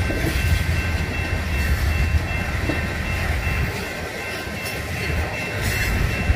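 Freight train's coal hopper cars rolling past: a steady low rumble of steel wheels on the rails, with a few sharper clicks.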